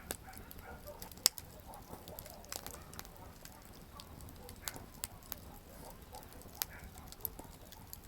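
Campfire wood burning and crackling: irregular sharp pops and snaps over a soft low rumble of flames, with one loud pop about a second in.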